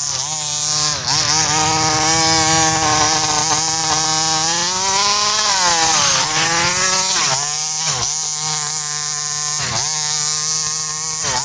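Rovan 30.5cc two-stroke petrol engine of a 1/5-scale RC Baja buggy running and revving up and down, its pitch dropping sharply with throttle lifts about a second in, around six seconds, and twice near the end.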